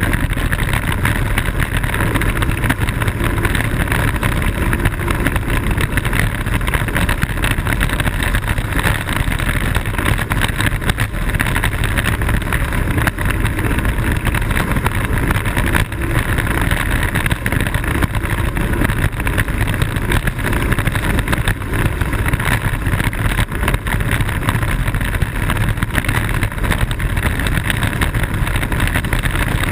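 Steady rush of wind on a kart-mounted camera's microphone, with wheel rumble from a Blokart land yacht sailing fast across airfield pavement.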